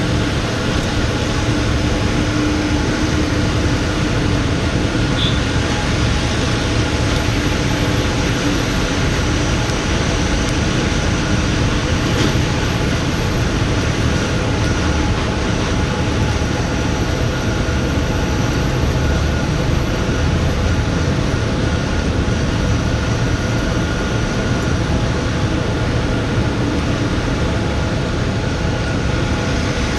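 Tata Signa trailer truck running on the road, a steady engine drone and road rumble with a faint steady whine, as heard from inside the cab.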